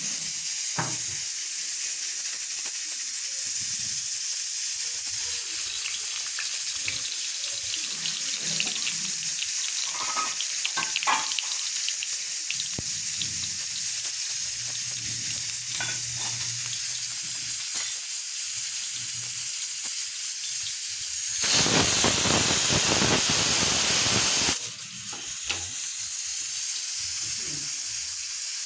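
Cumin seeds sizzling in hot oil in a wok, with a steady hiss and scattered small crackles. Near the end the hiss turns louder for about three seconds, then cuts off suddenly.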